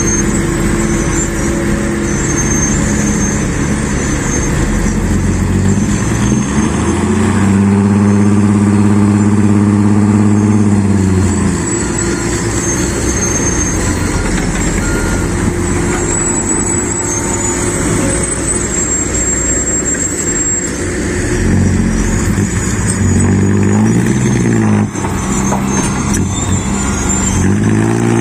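Mitsubishi Fuso dump truck's diesel engine, loaded with rocky soil, running and revving hard. It revs up and holds about six seconds in, then revs up and down several times a little after twenty seconds.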